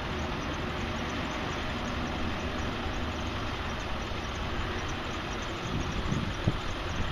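Ford F550 bucket truck's diesel engine running steadily, with a single knock about six and a half seconds in.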